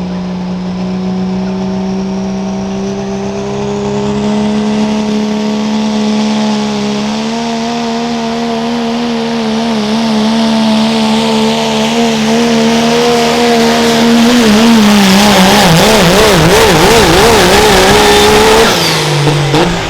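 Pro stock diesel pickup truck pulling a weight sled at full throttle, its engine note climbing slowly and getting louder. Near the end the engine pitch wavers rapidly up and down for a few seconds, then the engine drops off suddenly about a second before the end, as the pass ends.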